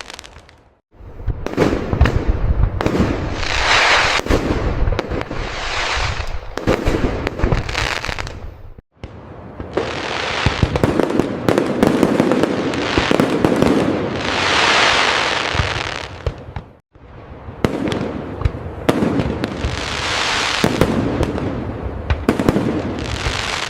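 Fireworks display: many aerial shell bursts in quick succession, with booms and crackling. The sound cuts out suddenly for a moment three times, about a second in, near nine seconds, and near seventeen seconds.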